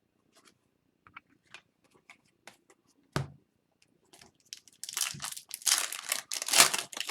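Trading card pack wrapper crinkling and tearing open, a dense crackle through the last two seconds or so. Before it, soft clicks of cards being handled and one sharper knock about three seconds in.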